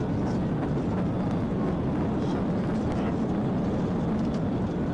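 Steady rumble of a car driving at high speed: engine, tyre and wind noise, unchanging in level.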